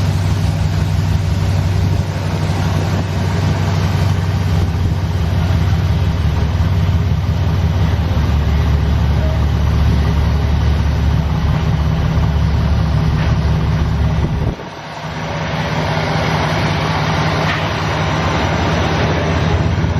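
Steady low engine and road rumble heard from inside a moving car's cabin. The rumble dips briefly about fifteen seconds in, then comes back.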